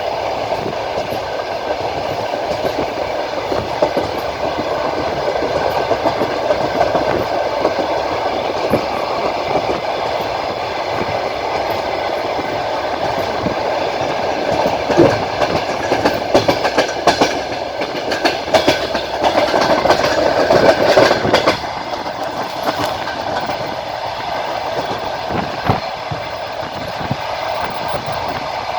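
Wheels of a passenger train clattering over rail joints, heard aboard the moving train, with the steady rumble of the running carriages. The clatter grows louder and busier about halfway through, then drops back to a steadier rumble near the three-quarter mark.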